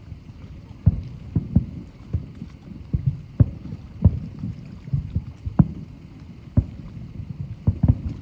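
Aerial firework shells bursting, a rapid irregular string of deep booms, about two a second, over a low rumble.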